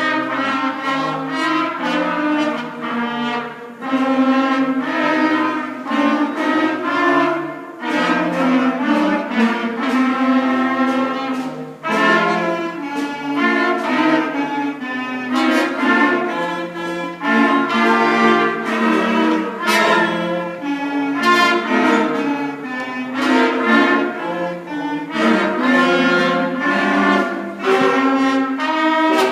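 A beginning school concert band, winds and brass, playing a minor-key piece in steady note-by-note phrases over a moving bass line.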